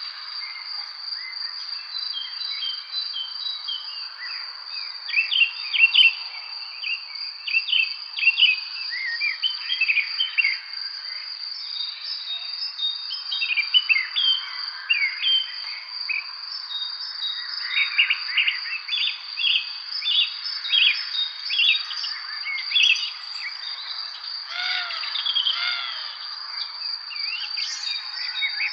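Several birds chirping and singing in short, quick notes, scattered throughout, over a steady high-pitched insect trill that never breaks.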